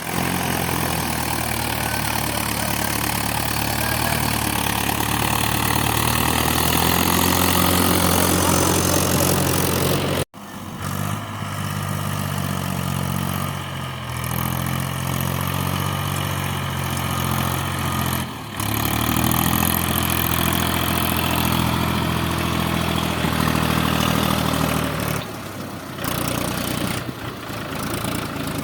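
Mahindra tractor's diesel engine running steadily. The sound breaks off abruptly for an instant about ten seconds in and dips again near eighteen seconds.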